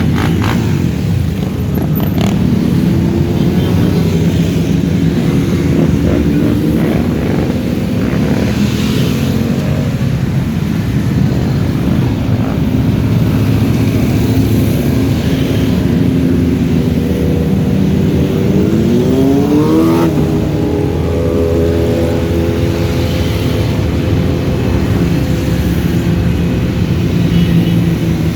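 Many motorcycle engines running together, one revving with a rising pitch about two-thirds of the way in.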